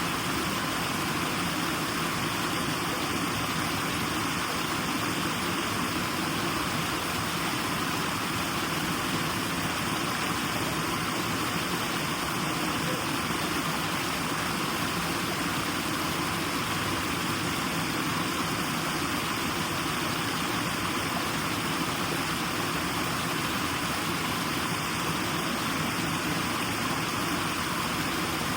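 White noise: an even, unchanging hiss that holds the same level throughout, with no breaks or separate sounds.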